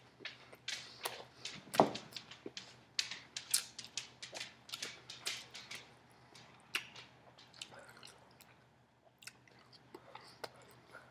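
A person chewing fast on omelette and turkey bacon with wet smacking mouth sounds, a quick run of smacks over the first half that thins out later.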